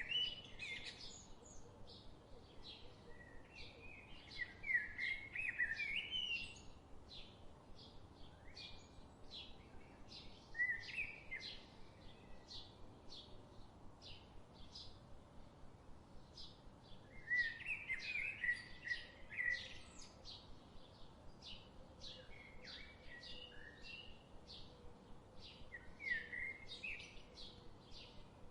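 Birds calling: a short high note repeated steadily about every half second, with bursts of chattering calls breaking in several times.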